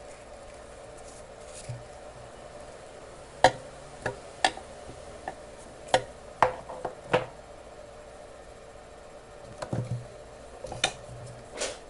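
Scattered sharp clicks and light knocks of small hard objects being handled and set down on a workbench, about a dozen, the loudest about three and a half seconds in, over a steady low hum.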